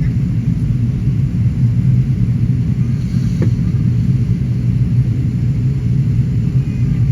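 Steady low rumble of a Qantas Airbus A380, the noise of its four Rolls-Royce Trent 900 engines and the airflow as heard inside the cabin.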